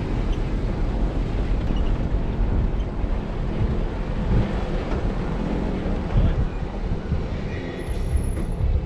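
Jeep Wrangler Rubicon driving a rough off-road trail: a steady, loud low rumble of engine and tyres.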